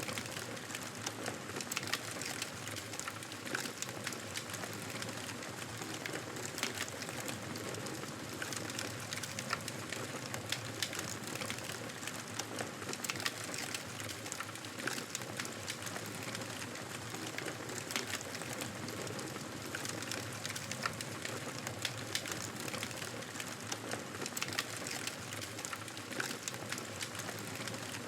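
Wood fire burning in a fireplace: a steady low rush of flames with frequent small crackles and pops scattered irregularly throughout.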